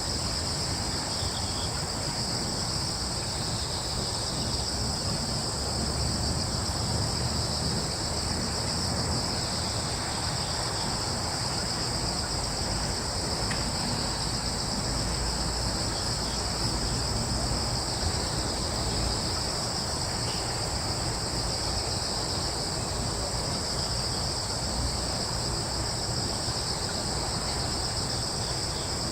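A steady chorus of crickets, two unbroken high trilling bands, with a low steady rumble underneath.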